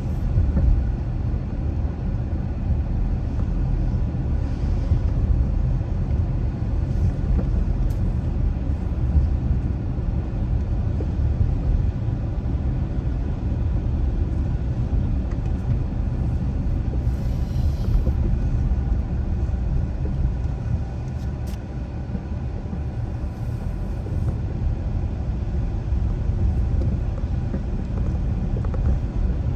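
Car driving at steady speed: a low, even rumble of tyre and engine noise, with a couple of brief hissy swells partway through.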